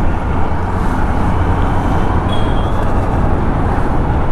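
Steady rumble of wind and engine noise from a motorcycle being ridden through traffic, with wind buffeting the microphone.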